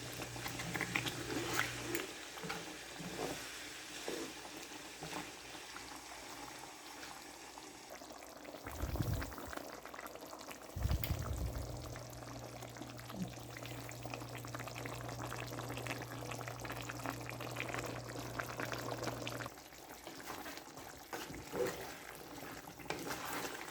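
Chicken in a thick spiced ghee gravy bubbling and sizzling in the pan as the chicken's own water cooks off, a steady crackling hiss. A low steady hum runs under it at times, and there are two short low thuds about nine and eleven seconds in.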